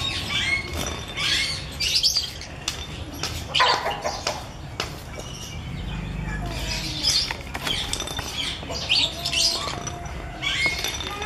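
Birds chirping with many short, high calls in quick succession, mixed with a few sharp knocks or wing flaps.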